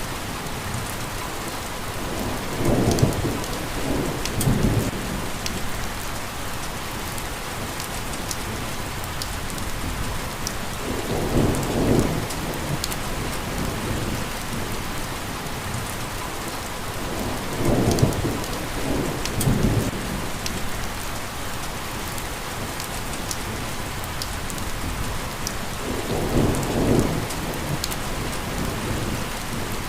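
Steady rain hissing, with thunder rumbling low four times, each rumble lasting a second or two.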